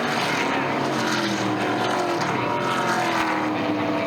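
NASCAR Truck Series race trucks running at speed, their V8 engines droning together, several pitches sliding slowly down as they go by.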